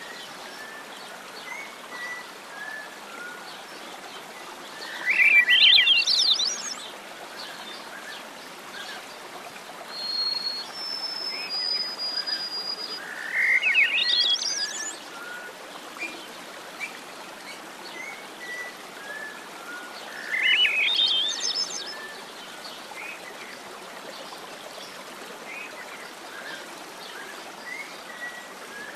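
Wild birds singing: a loud, rapid trilled phrase that rises in pitch, repeated three times about seven seconds apart, with scattered short chirps from other birds and a thin high whistle near the middle, over a steady faint background hiss.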